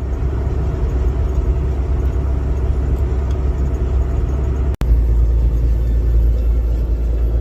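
Steady low rumble of a car driving, heard from inside the cabin: engine and road noise. Just under five seconds in it cuts out for an instant and comes back slightly deeper and louder.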